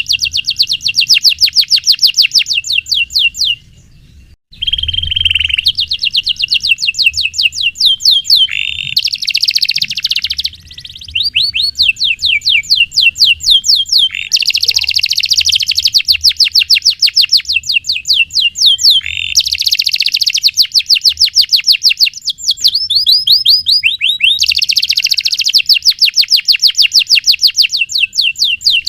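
Domestic canary singing long rapid trills of fast repeated notes, phrase after phrase with only brief pauses, the longest about four seconds in.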